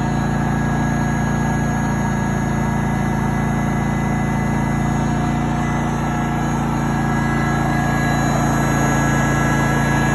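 Champion 4650 inverter generator running steadily under load from a 1500-watt heat gun, with eco mode switched off. It gets slightly louder toward the end.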